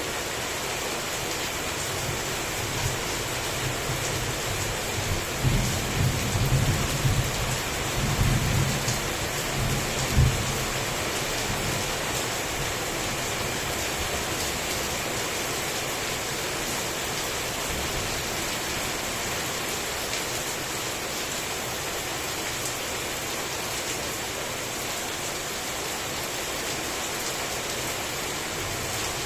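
Heavy rain falling steadily. Thunder rolls in about five seconds in, a deep rumble that peaks in a sharp crack about ten seconds in, then dies away under the rain.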